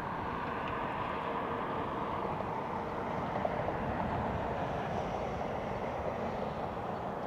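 Steady jet airliner engine noise: an even, broad rumble with no distinct events.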